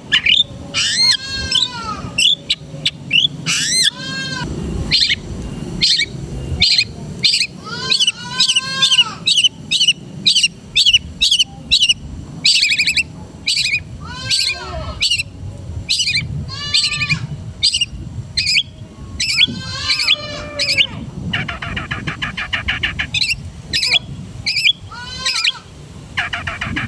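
Long-tailed shrike (cendet) singing a rapid, varied song: sharp high chirps mixed with arched, rising-and-falling whistled calls. About two-thirds through, and again near the end, the song turns into a fast buzzy rattle.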